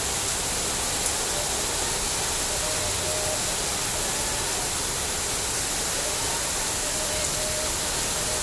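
Heavy rain pouring steadily onto wet paving, an even dense hiss.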